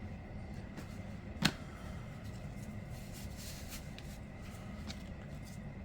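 Light handling noises over a steady low background hum, with one sharp click about a second and a half in.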